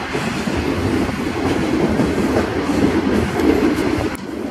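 A long train of passenger coaches running past on the rails, the wheels making a steady loud rolling noise. The sound drops off sharply near the end as the last coach goes by.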